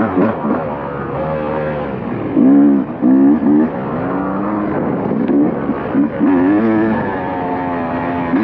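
Dirt bike engine revving up and down repeatedly as the rider works the throttle and shifts, loudest in a few sharp rev peaks two to three and a half seconds in.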